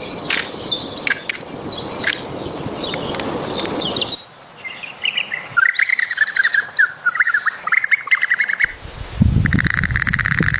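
Birds chirping over a steady hiss. After an abrupt change about four seconds in, a fast run of high, buzzy chirps follows, ending in a longer buzzy trill near the end.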